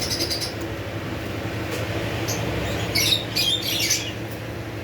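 Parrots chirping and squawking in short shrill calls: a couple of quick chirps at the start, then a busier burst of calls about three seconds in, over a steady low hum.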